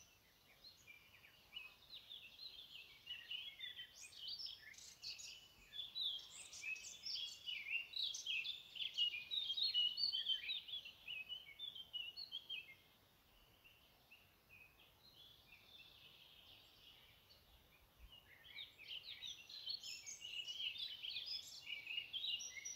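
Birds singing outdoors: many quick, high chirps and trills overlapping. They drop away for about five seconds past the middle, then start up again.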